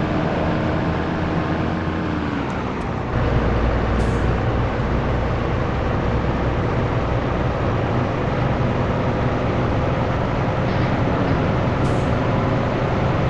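Scania T113 truck's straight-six diesel engine under way: the revs drop about two to three seconds in, as in a gear change, then the engine pulls harder with the revs slowly climbing. Brief hisses of air come near 4 seconds and again near 12 seconds.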